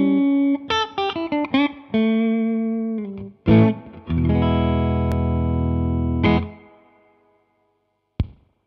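Electric guitar played through a Hudson Broadcast–style preamp pedal (a Jeds Peds Bird Strike clone), with a lightly overdriven tone. A run of picked single notes comes first, then a strummed chord about four seconds in rings for a couple of seconds and fades out. A short sharp click follows near the end.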